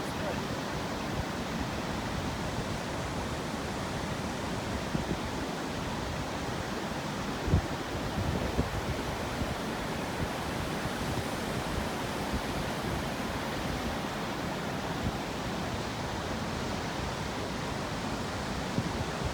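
Waterfall on the Sablinka River: a steady rush of falling water, with a brief low thump about seven and a half seconds in.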